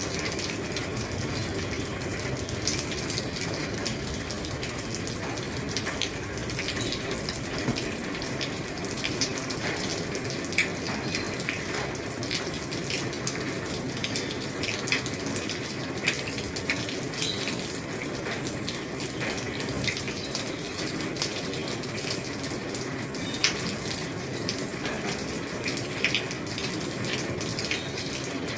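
Steady rain falling on an old roof: an even hiss of rain with many sharp, irregular drop ticks striking the roof.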